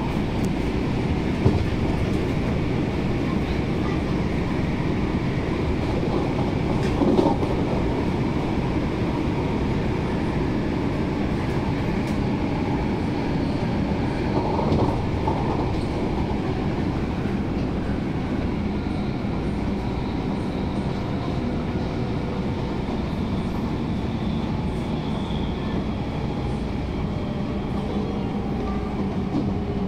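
MTR Tung Chung line A-train running, heard from inside the carriage: a steady rumble of wheels on the track, with a few brief knocks, about a second and seven seconds in, over a faint steady hum.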